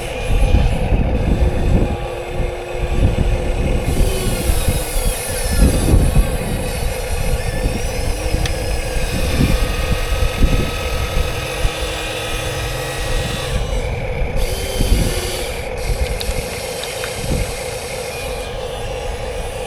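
Huina radio-controlled 1:14 scale excavator and dump truck at work: a steady diesel-style engine drone, with a motor whine that starts and stops several times as the machines move.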